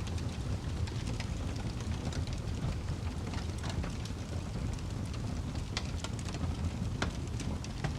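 Wood fire crackling: a steady low rumble of flames under scattered snaps and pops, with a few sharper pops in the second half.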